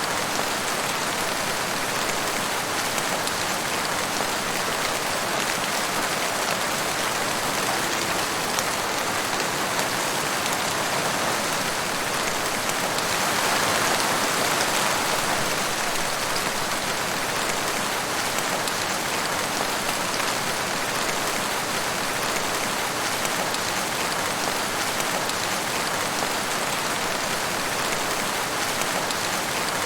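Steady forest rain: an even hiss of raindrops falling, swelling a little about halfway through.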